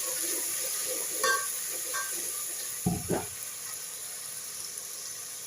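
Masala frying in hot oil in a cooking pan, sizzling steadily while it is stirred, with a few knocks of the spoon against the pan about one, two and three seconds in.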